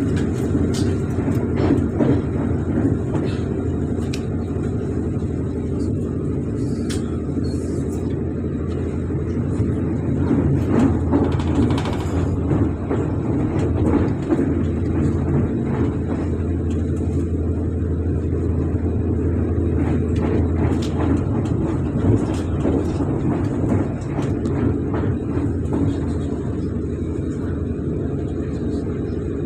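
Wheels of a Stadler FLIRT electric multiple unit rumbling steadily along the rails, heard from inside the carriage, with scattered clicks and knocks of wheel clatter over the track.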